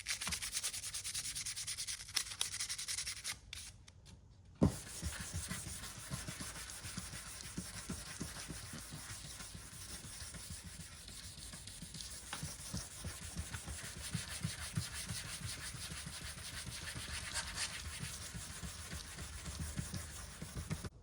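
Sandpaper on a small hand sanding block rubbing back and forth over primer on an aluminium car panel, blocking it down with 400 grit. The strokes stop briefly about four seconds in, then a single knock, then the rubbing goes on in quick steady strokes.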